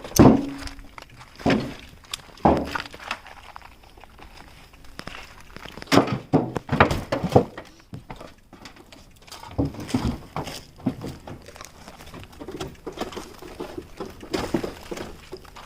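Irregular thuds and knocks of hands and objects being handled in a small room: a few loud single knocks in the first seconds, a quick run of them around the middle, then lighter clattering.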